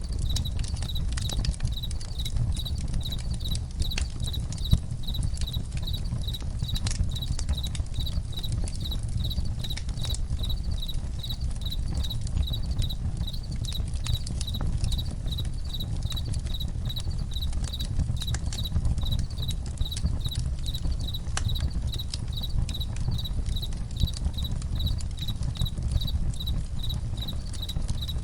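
Campfire crackling: a steady low rumble with scattered sharp pops. Over it, crickets chirp in an even, high-pitched pulsing rhythm.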